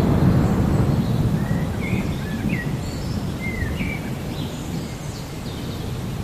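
Thunder rolling over steady rain, loudest at the start and easing off, with birds chirping a few short notes in the middle.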